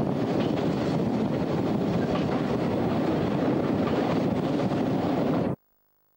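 Steady running noise of a passenger train heard from an open coach window, with wind buffeting the microphone. It cuts off abruptly about five and a half seconds in.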